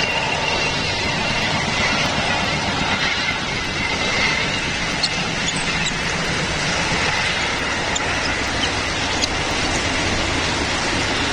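Steady rushing outdoor background noise with faint, thin high squeaks and a few short ticks.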